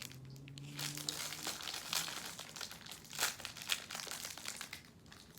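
Snack wrapper crinkling and rustling as it is handled and torn open, in irregular crackles.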